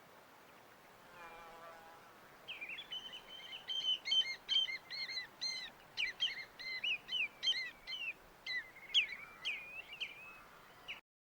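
A songbird sings a long, rapid run of sweeping chirps and trills over a faint steady hiss, after a brief lower call about a second in. The sound cuts out abruptly just before the end.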